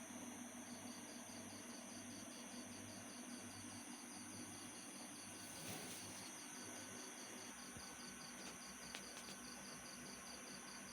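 Faint insect chirping: an even pulsing trill of about four pulses a second over a steady high whine, pausing briefly about halfway through.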